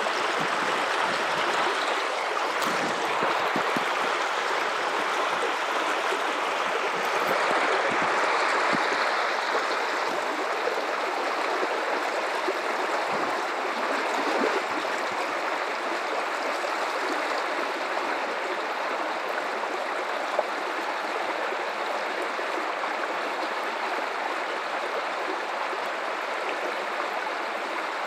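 River water flowing steadily over rocks, an even rushing and gurgling that swells slightly a few seconds in.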